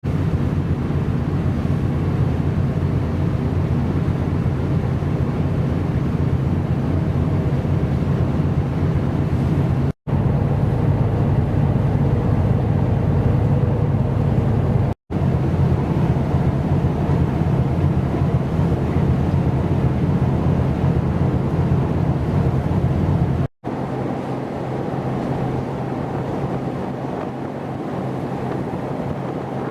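Steady low drone of a ship's engine underway, with wind on the microphone. After a cut about two-thirds through, the engine drone falls away and mostly wind and sea noise remain.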